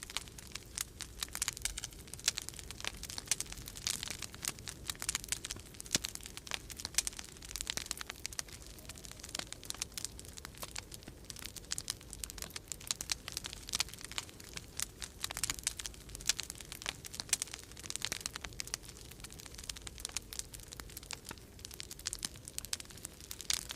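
Wood fire crackling in a fireplace, with dense, irregular pops and snaps throughout, over a steady low rumble of winter storm wind.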